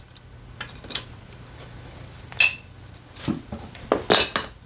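Metal hand tools and bolts clinking and knocking during scooter engine disassembly: a handful of sharp clinks, one ringing briefly about halfway through, with the loudest cluster near the end.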